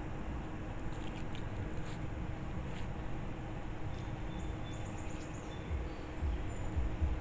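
Outdoor background with a steady low hiss, faint short high chirps from small birds or insects, and a few low thumps near the end.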